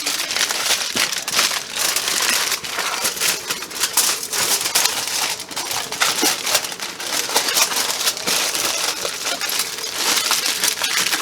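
Wrapping paper crinkling and crackling as it is folded tightly around a rack of ribs, a busy run of rustles and small crackles throughout.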